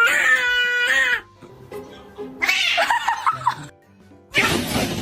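A cat yowling: one long drawn-out caterwaul that ends about a second in, then two shorter, harsher, raspier cries.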